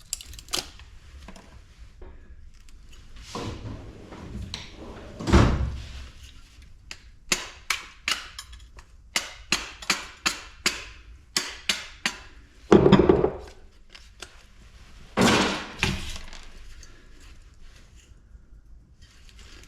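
Metal parts of a large light fixture being handled and pried apart by hand: a run of sharp clicks and knocks, with three heavier thunks spread through.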